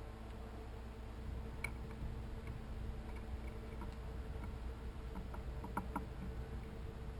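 Faint scattered ticks and clicks from birds at a seed feeder, with a quick cluster of them about five to six seconds in, over a steady low hum.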